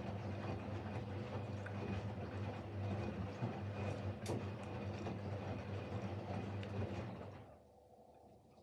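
Siemens Siwamat Plus 574 washing machine running in its fourth rinse, with fabric softener: a steady motor hum with light clicks that stops abruptly about seven seconds in.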